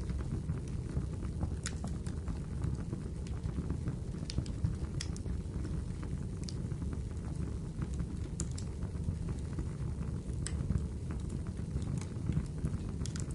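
Wood fire burning in a fireplace: a steady low rumble of flames with scattered sharp crackles and pops of the burning wood every second or two.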